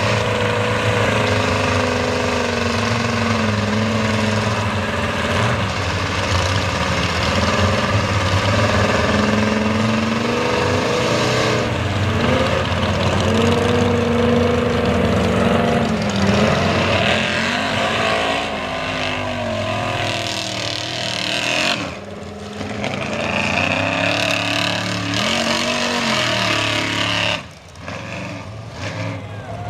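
Mega truck engine revving hard through a mud bog, its pitch rising and falling again and again, with two brief drops in loudness near the end.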